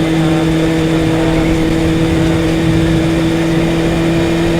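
1998 Honda CBR600 F3's inline-four engine running at a steady, unchanging pitch while riding, with wind and road noise rushing over the helmet microphone.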